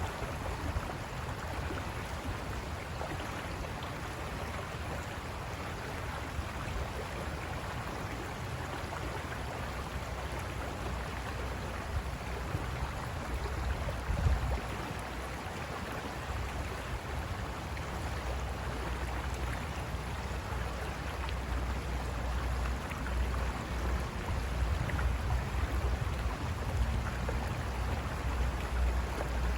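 River water rushing over rocks: a steady rushing hiss, with a deep rumble underneath that grows stronger in the second half and one brief louder moment about halfway through.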